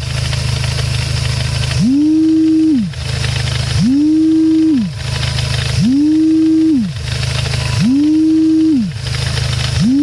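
Dodge SRT-4 idling with the clutch chatter noise from its transmission that the owner calls God awful: about every two seconds a whine rises, holds for about a second and falls away, alternating with a hissy rattle. The owner puts it down to the clutch fork chattering, which his DRC master cylinder was meant to stop.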